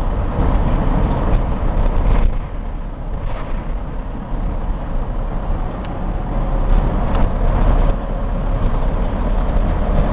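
1994 Chevy box truck with a 5.7-litre V8 driving along at road speed: steady engine and road noise heard from the cab, with a few brief knocks.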